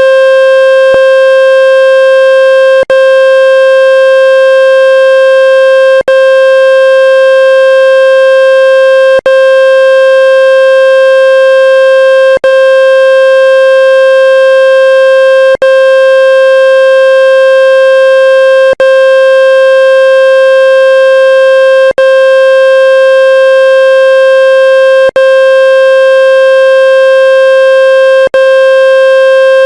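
Water-ejection tone for a wet phone speaker: a loud, steady, mid-pitched electronic buzz with several fixed overtones, played to shake trapped water out of the speaker. It briefly cuts out with a click about every three seconds.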